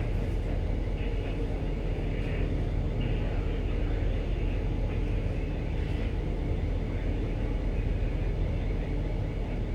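Steady low rumble of a ship's machinery, with a constant deep hum and no change in pitch.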